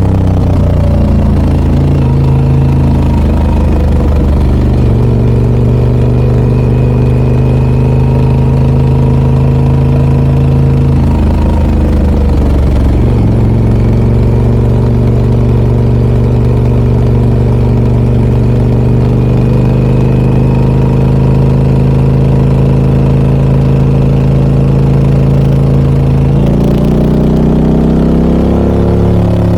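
Harley-Davidson Pan America 1250 Special's Revolution Max 1250 V-twin running through a Scorpion exhaust, holding a steady speed under way. The engine note changes pitch about four seconds in, again near the middle and again near the end, as the revs change.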